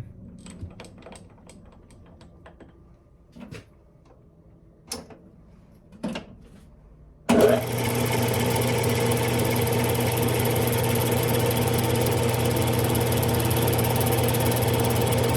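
A few light clicks and knocks of handling. About seven seconds in, a Smithy lathe is switched on and runs with a steady motor hum and whine, stopping near the end.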